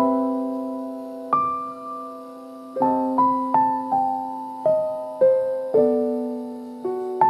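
Soft, slow piano (electric-piano tone) playing sustained chords, each struck and left to ring and fade before the next, about a new chord or note every second.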